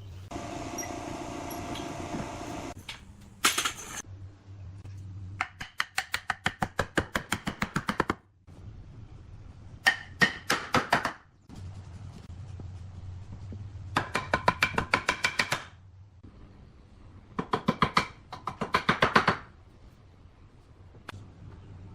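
Workshop sounds: a brief steady whir at the start and a single loud knock, then four runs of rapid sharp strikes, about five a second, each lasting one to two and a half seconds.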